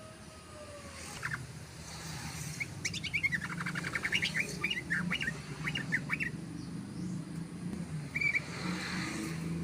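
Yellow-vented bulbul singing a fast, continuous run of short chattering notes lasting about three seconds, then one short call near the end, over a low steady hum.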